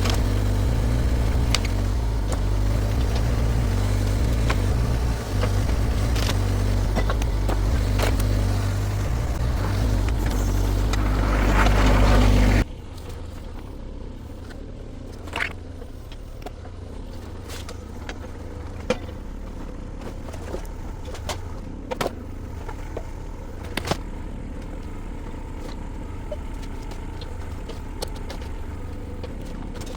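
Mini excavator's diesel engine running hard, with scattered knocks and cracks, swelling louder just before it cuts off abruptly about thirteen seconds in. After that comes a quieter, steady engine hum with occasional sharp knocks.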